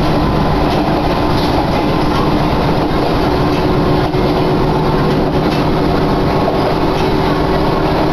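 Izuhakone Railway Sunzu Line electric train running between stations, heard from inside the passenger car: a steady rumble of wheels on the track.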